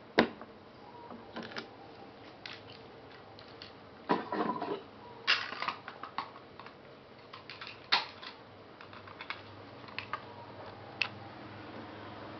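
Irregular light clicks and knocks from hard plastic parts, with a sharp one at the very start and a busy cluster about four to six seconds in.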